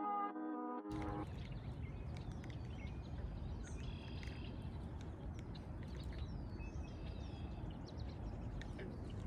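Acoustic guitar music cuts off about a second in. It gives way to birds chirping and calling, many short calls over a steady low rumble.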